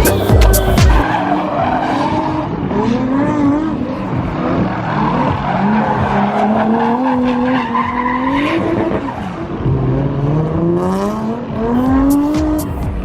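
Car engine revving hard, its pitch climbing and falling several times and then making one long rise near the end, with tyre skidding noise. Music with a beat is heard in the first second and again at the very end.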